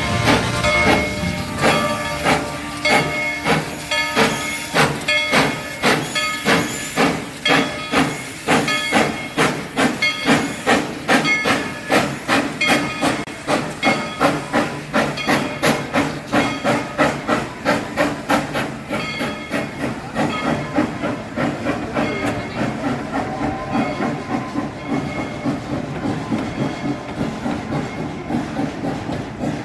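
Coal-fired steam locomotive working, its exhaust chuffing in an even beat of about two a second over a steady hiss of steam. The beat becomes slightly faster and a little softer in the last third.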